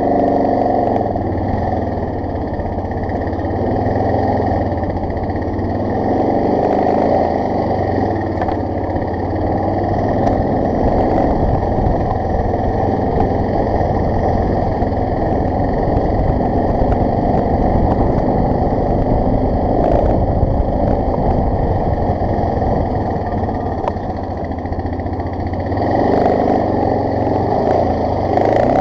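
BMW F650 GS motorcycle engine running steadily while the bike is ridden over rough ground, its level rising and falling a little.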